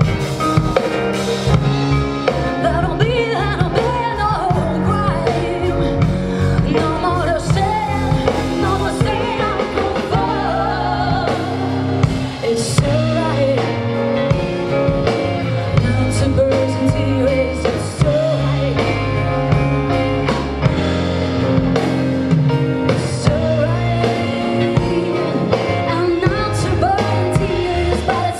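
Live rock band playing, with a singer over guitars and a drum kit keeping a steady beat.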